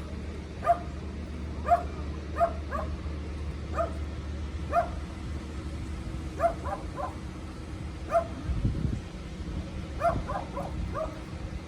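A dog barking over and over in short, sharp barks at an irregular pace, with a steady low engine hum underneath.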